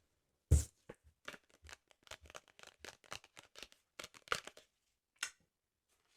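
Paper of a sticker album page tearing in a run of short, crackly rips, with one sharp loud rip about half a second in and a last one near the end.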